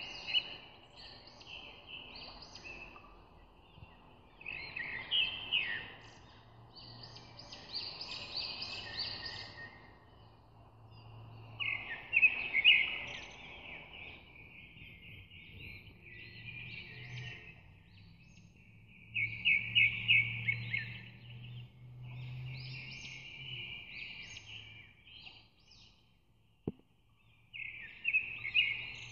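Birds chirping in repeated bursts every couple of seconds, over a faint low steady hum, with one sharp click near the end.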